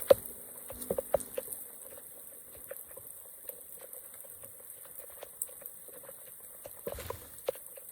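Water dripping and trickling: scattered light patters and clicks over a faint hiss, bunched in the first second and again near the end.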